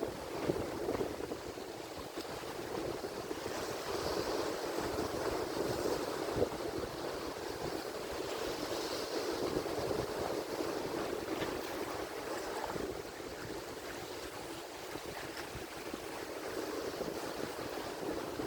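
Ocean surf: a continuous rush of breaking and washing waves that swells and eases every few seconds.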